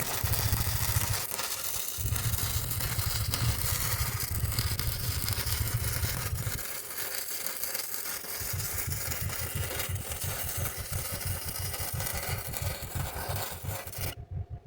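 MIG welder laying beads on steel: a steady crackling arc with a low buzz, in runs broken by short pauses about a second and a half in and again around the middle.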